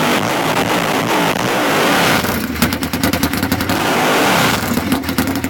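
Unmuffled, straight-piped engine being revved: the pitch rises and falls for about two seconds, drops to a rough, popping idle, is revved again about three and a half seconds in, then settles back to the popping idle near the end.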